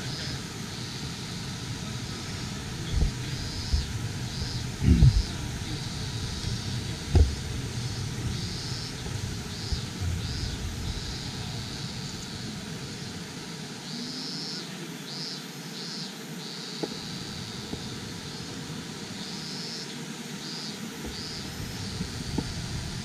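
Steady rushing of a rocky mountain stream, with a high chirping repeated over it and a few low thumps in the first several seconds.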